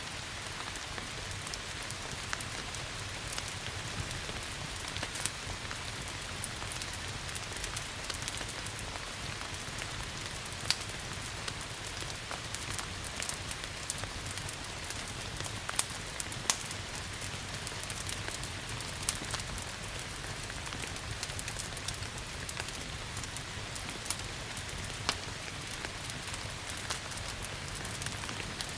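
Steady rain hissing, mixed with a crackling wood fire: many small ticks and pops, with a few louder ones scattered through.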